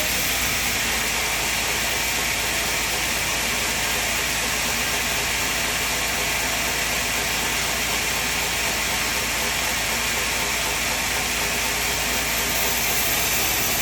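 Steady mechanical running noise of a sawmill machine, with no break or change in level.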